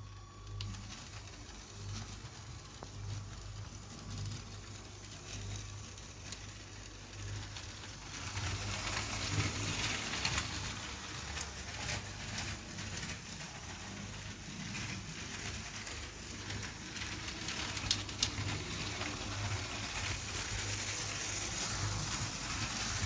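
A motorised Lego train running on plastic track: a steady whirring motor hum with the rattle of wheels on the track, growing louder about eight seconds in and staying up, with a few sharp clicks later on.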